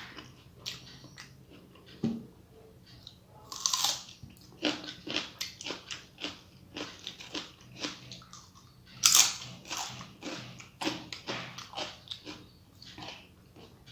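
Close-miked eating sounds of a person chewing a mouthful of rice and mashed vegetables: wet chewing and lip smacks at an uneven rhythm, with a few louder crunchy bites, the loudest about four and nine seconds in.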